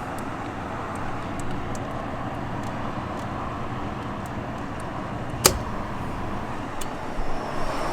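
Rooftop gas heating unit running steadily while being test-fired after its inducer motor was replaced, a continuous even whoosh with one sharp click about five and a half seconds in.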